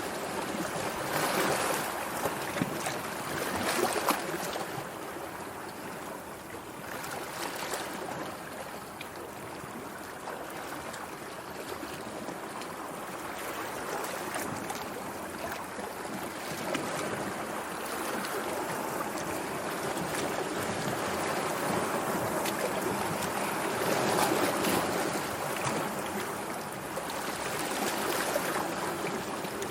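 Sea water washing and lapping in a continuous rush, swelling briefly near the start and again a little past the middle.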